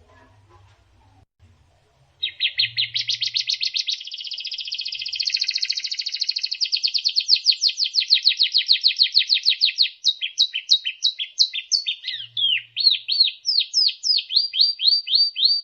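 White-rumped shama (murai batu) song recording: about two seconds in, a fast rattling trill of rapidly repeated high notes starts, giving way near the middle to slower, separate whistled notes that sweep up and down. It cuts off abruptly at the end.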